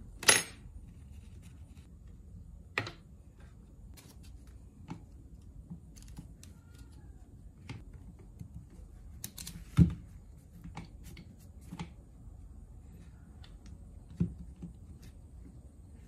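Scattered metallic clicks and knocks of a hand tool working on a car starter motor as it is taken apart. A few louder knocks stand out, the loudest just after the start and about ten seconds in.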